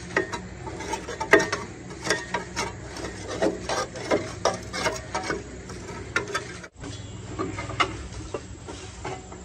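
Irregular clicks and scrapes of hand-tool work, over a faint steady low hum, with a sudden break about two-thirds of the way through.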